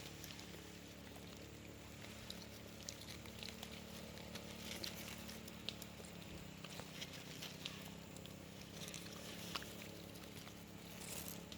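Faint rustling and small clicks of leaves and stems being handled while wild berries are picked from a thorny vine, scattered irregularly over a low steady hum.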